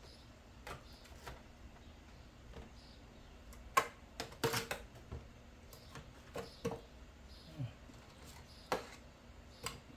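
Light clicks and short clatters of a kitchen utensil against a pan as chicken pieces are turned over, coming irregularly with a busier cluster about four to five seconds in.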